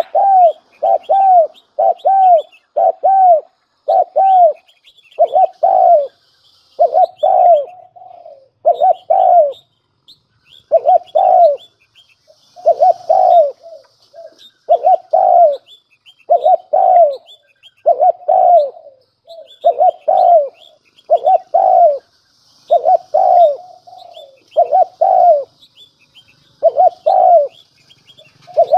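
Spotted dove (decoy cu gáy) cooing: low, arched coos repeated in phrases, about one or two a second with short gaps. Small birds chirp faintly in the background.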